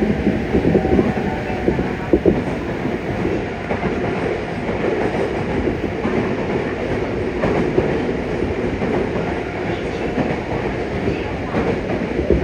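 Yokohama Municipal Subway 3000N train running, with a steady rumble of wheels on rail and occasional sharp clacks from the rail joints.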